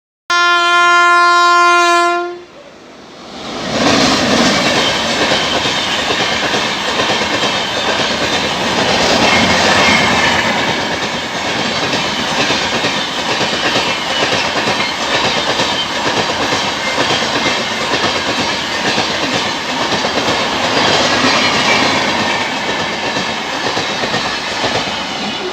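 A WAP-7 electric locomotive's horn gives one loud blast of about two seconds. Then an LHB passenger train passes close by, with a steady noise of wheels on rail to the end.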